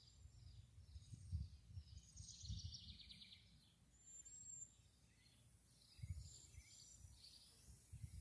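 Faint outdoor ambience with small birds chirping in the distance, including a short trill about two seconds in and a brief high whistle near the middle. Low dull thumps on the microphone come through now and then.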